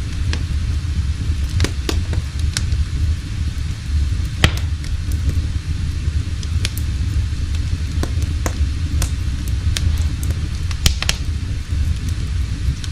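Wood fire crackling: sharp pops at uneven intervals over a steady low rumble.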